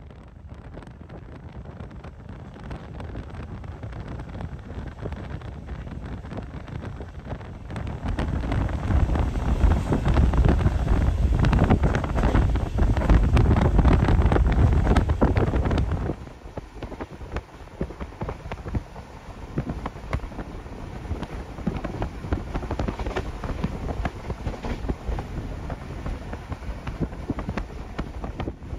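Night train running at speed, heard from inside an ex-ÖBB T2S sleeping car: a steady rumble of wheels on rails with rushing wind noise. It grows much louder about eight seconds in and drops back suddenly about halfway through.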